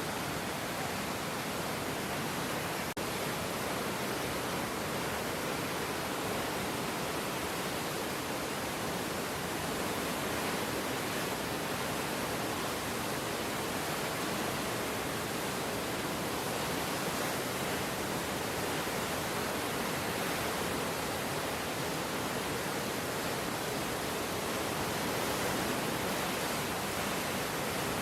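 Floodwater rushing in a swollen river: a steady, unbroken rush of water.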